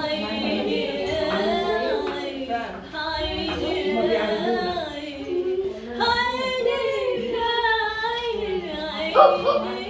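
A woman singing, apparently unaccompanied, in long held notes that waver in pitch, with a brief louder burst near the end.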